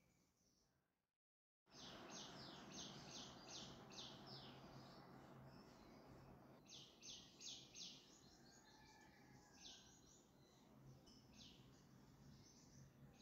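Near silence: a faint room hum, with runs of quick, high bird chirps, several a second. The sound drops out completely for half a second about a second in.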